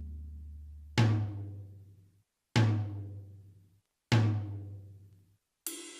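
Sampled drum sounds from an XM ZX-8SR electronic drum module, triggered one at a time about every one and a half seconds: each is a low, pitched drum boom that dies away over about a second. Near the end a brighter, hissing cymbal-like hit starts and rings on.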